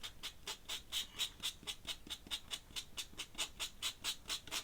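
Ink pen nib scratching on paper in quick, even hatching strokes, about five or six a second, shading in part of a drawing.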